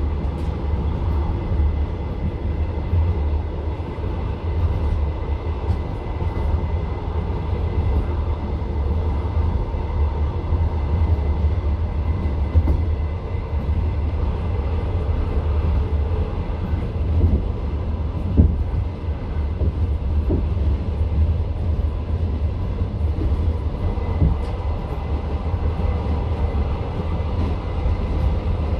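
Passenger train running along the line, heard from inside the carriage: a steady low rumble of the wheels and car body. A few sharp knocks from the wheels stand out, the loudest about eighteen seconds in.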